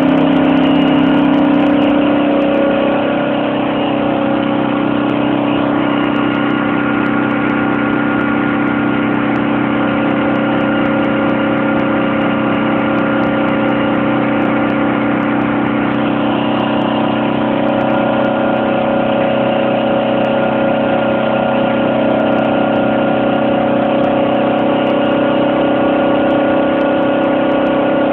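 Baldos II 50cc four-stroke moped engine running steadily on a dyno, its speed dipping slightly about two seconds in and shifting a little now and then.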